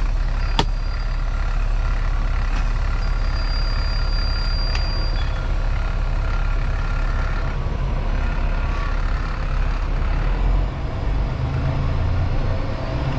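Semi truck's diesel engine running steadily, a low rumble, with one sharp click about half a second in.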